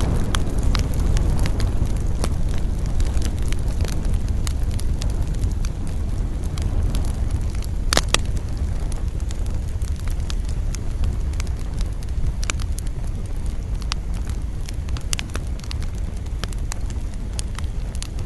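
Wood campfire burning, with irregular crackles and pops over a steady low rumble; one sharp, loud pop about eight seconds in.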